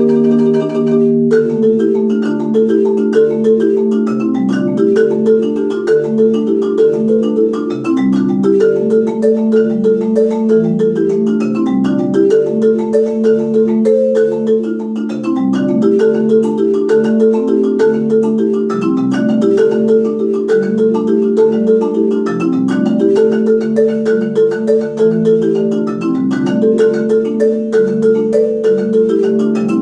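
Solo marimba played with four mallets: fast, continuous repeated notes in the low and middle range, an ostinato of rolling chord patterns. A sustained chord rings for about the first second before the rapid notes start.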